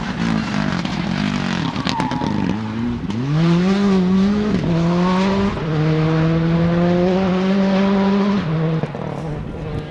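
Rally car engine under hard acceleration, with a sharp crack about two seconds in. About three seconds in the engine pitch climbs steeply, then holds at steady high revs before dropping away near the end.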